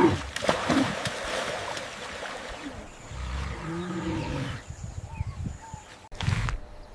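Elephant and calf calling: a loud call tails off over the first second, then a few shorter, softer calls follow around the middle. The sound cuts off abruptly near the end.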